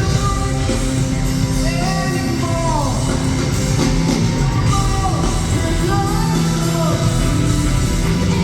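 Live rock band playing, with a sung vocal line gliding up and down in long phrases over steady bass and sustained chords.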